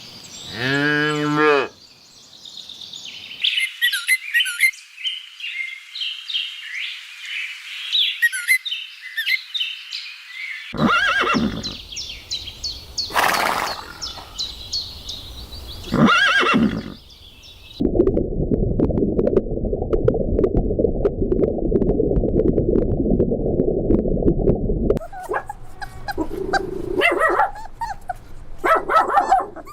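A run of different farm animal calls, one after another: a short low call near the start, high chirping for several seconds, a few loud calls, a steady rough low noise for about seven seconds, then more short calls near the end.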